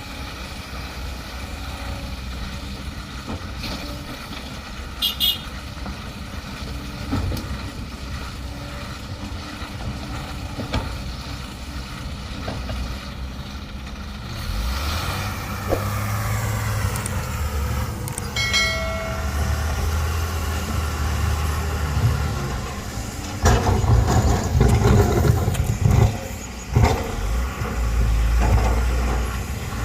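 Heavy diesel machinery running, with the engine working up under load about halfway through. Loud knocks and rattling follow in the last several seconds.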